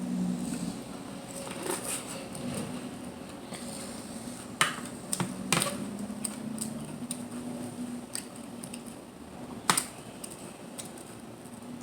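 Close-miked seafood eating: mussel and clam shells and utensils clicking against a dish, with three sharp clicks standing out about four and a half, five and a half and nine and a half seconds in, among lighter ticks.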